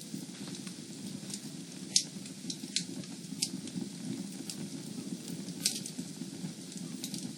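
Fire crackling in a fireplace: a steady low rush of flame with sharp pops and snaps about every second, the loudest about two seconds in.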